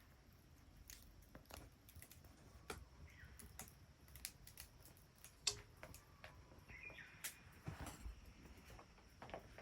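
Wood bonfire crackling quietly, with scattered sharp snaps at irregular times, the loudest about five and a half seconds in.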